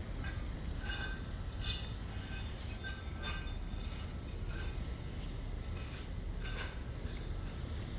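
Tiling work: a few light, hard clinks with a short ring, spaced a second or two apart, over a steady low rumble.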